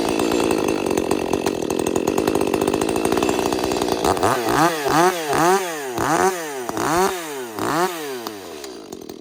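Ported 30cc Echo chainsaw running at a steady high speed, then revved up and back down sharply five or six times before dropping toward idle near the end.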